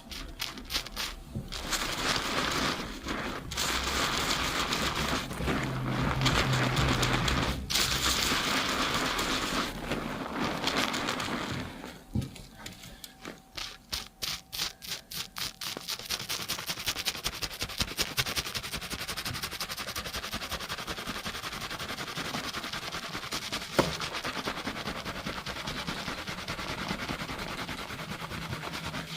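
Binaural close-up of hands shampooing lathered hair and scalp. It begins as a dense rubbing hiss, then about 12 s in turns into separate scrubbing strokes that quicken into a fast, even scrubbing rhythm of several strokes a second.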